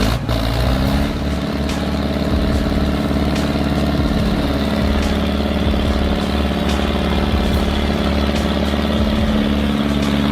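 Excavator's diesel engine running steadily under load. Its pitch drops slightly about four seconds in and rises again near the end.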